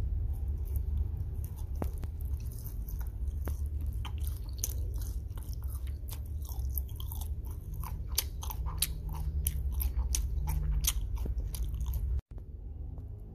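Close-miked chewing of a sugar-coated gummy candy roll: a run of wet mouth clicks and smacks, densest in the middle, over a steady low rumble. The sound drops out for an instant near the end.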